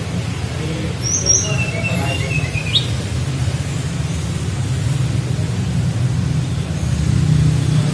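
Tledekan flycatcher singing a short flute-like phrase: two quick high notes about a second in, then a run of lower whistled notes ending in a fast upward sweep near three seconds. A steady low hum runs under it.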